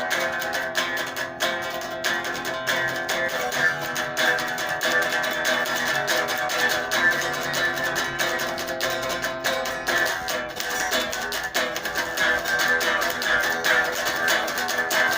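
Guitar played solo, a steady stream of quickly picked notes ringing over one another.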